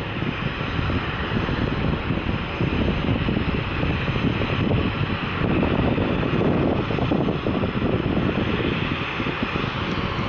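Airliner coming in to land, its engines making a steady, loud rumble.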